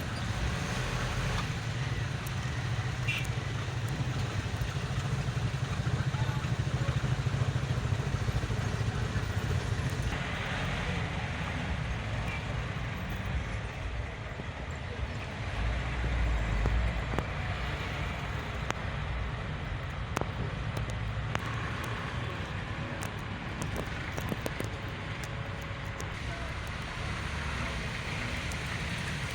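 Steady rumble of road traffic: vehicle engines and tyres running continuously.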